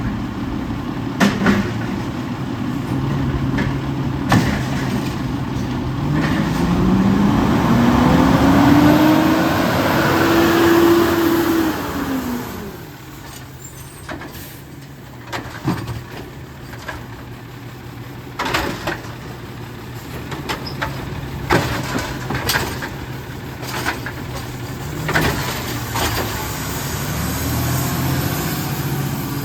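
Heil 7000 front-loader garbage truck on an Autocar WX64 chassis. Its diesel engine revs up about six seconds in, holds high for several seconds and drops back to idle near the middle. Over the lower idle come scattered sharp metal clanks and knocks, and the engine picks up again near the end.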